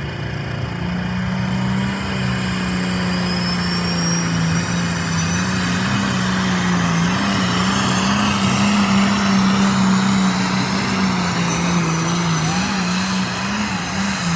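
Pulling tractor's engine running hard at a steady, slightly wavering pitch throughout, as in a run down the track during a tractor pull.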